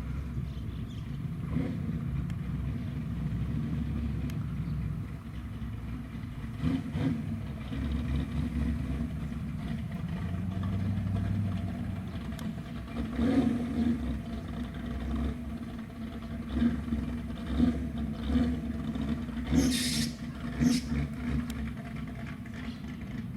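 American cars' engines running at idle with a low rumble, then blipped in a series of short revs in the second half, one with a sharp crackle about 20 seconds in.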